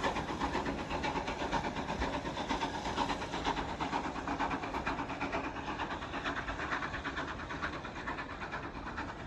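GWR 14xx-class steam tank locomotive No. 1450 running away from the crossing. Its rapid, regular pulsing sound slowly fades.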